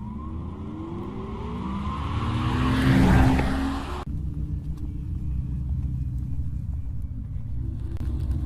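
A car accelerating hard, its pitch rising for about four seconds to a loud peak, then cut off abruptly and followed by a steady low rumble.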